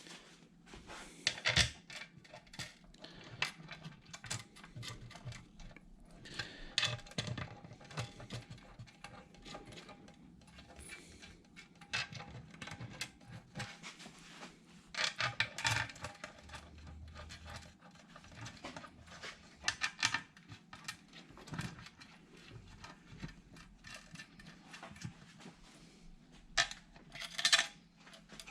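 Loose steel oil pan bolts clinking and rattling as they are picked up and started by hand into the oil pan flange: irregular small metallic clicks, a few louder clinks.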